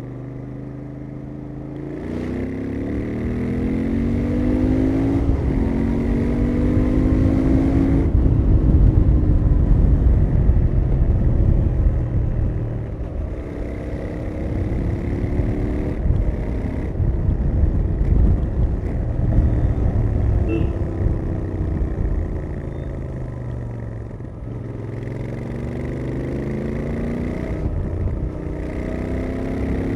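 Royal Enfield Interceptor 650's 648 cc parallel-twin on its stock exhaust, ridden hard: the exhaust note climbs with the revs and drops back at each gear change, several times over, under a steady rumble of wind and road noise.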